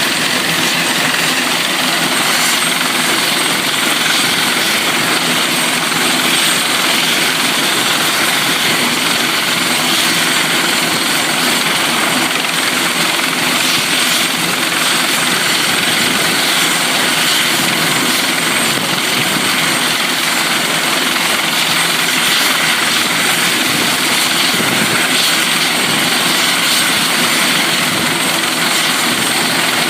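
Helicopter turbine and rotor noise, a loud, steady drone with a thin high whine running through it.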